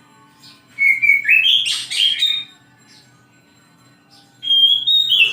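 Oriental magpie-robin (kacer) singing: a loud phrase of clear whistled notes stepping up and down in pitch about a second in, and another starting near the end.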